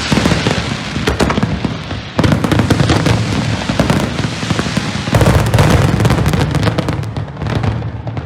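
Fireworks display: a dense barrage of rapid bangs and crackling over a low rumble, surging about two seconds in and again about five seconds in, then thinning near the end.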